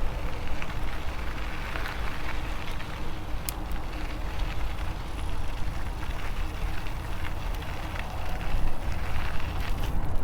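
Electric bicycle riding along a trail: steady tyre noise with a faint crackle, and wind rumbling on the microphone.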